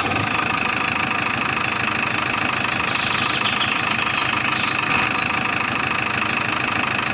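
Engine running steadily at a constant speed, with no change in pitch.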